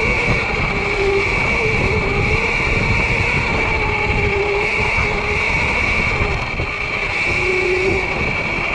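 Sur-Ron electric dirt bike running under way: a steady high electric whine over a lower motor whine that rises and falls with speed, with rumble from chain, tyres and wind on the microphone.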